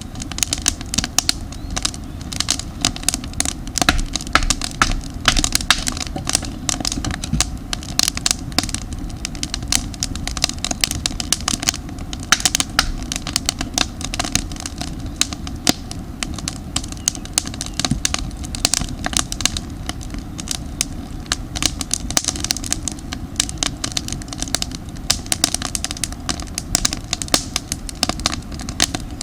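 Campfire of damp firewood crackling, with dense rapid pops and snaps over a steady low rumble of the flames.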